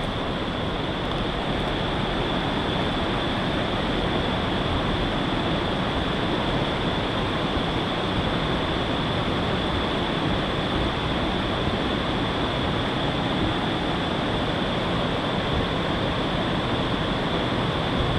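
Steady rushing of water pouring over a small waterfall on a creek, an even unbroken roar with a thin high-pitched tone running through it.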